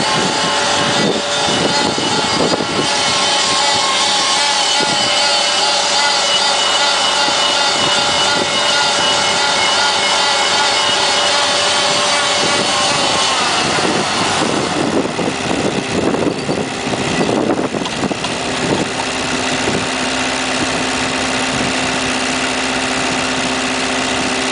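Jacobsen fairway mower's engine running steadily. Its note wavers between about 13 and 18 seconds in, then settles into a steady lower hum.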